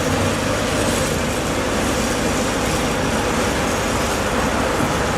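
Continuous engine rumble with a steady hiss, holding level throughout.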